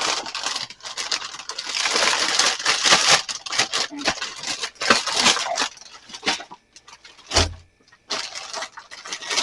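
Irregular scraping, rubbing and clattering as ice is scraped and items are handled in a mini fridge freezer being defrosted, with one sharp thump about seven seconds in.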